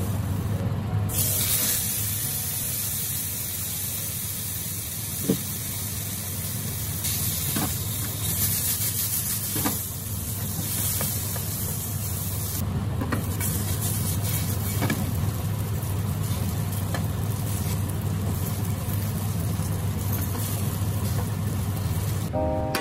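Food frying in a nonstick wok on a gas stove: a steady sizzle and hiss with a short break about halfway through, over a low steady hum. A few sharp clicks of a utensil against the pan, the loudest about five seconds in.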